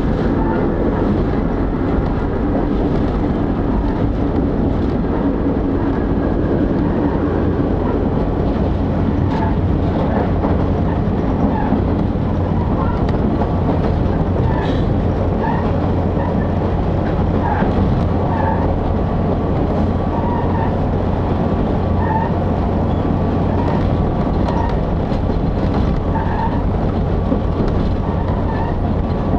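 Running sound heard inside a JR Gotoji Line diesel railcar under way: a steady rumble of engine and wheels on the rails. Short higher-pitched notes recur every second or two.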